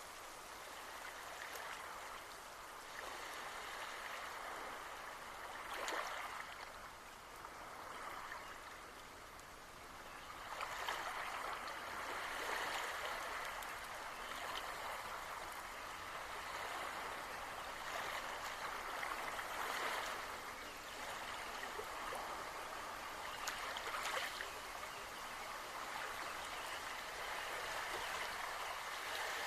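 Steady rain falling, with the sound of running water and scattered sharper drops; it grows louder about ten seconds in.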